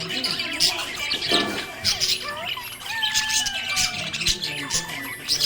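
Budgerigar chirping and warbling: a steady stream of quick squeaky chirps and short whistled glides.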